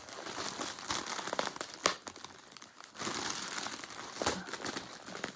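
Thin plastic bag crinkling and crackling as a skein of yarn is worked into it, with a few sharp crackles and a brief lull about two seconds in.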